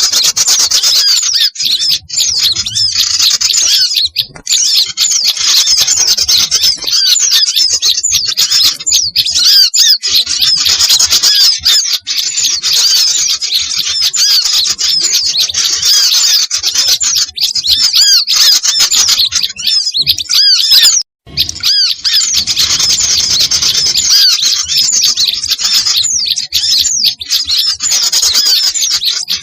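A dense, noisy chorus of many small songbirds chirping and trilling over one another without pause, all high-pitched: a lure recording of small birds used to call wild birds in for trapping. The chorus cuts out for a moment about 21 seconds in.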